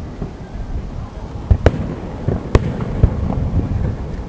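Aerial fireworks exploding over a lake, with a handful of sharp bangs from about a second and a half in, two of them close together, over a continuous low rumble of booms echoing back.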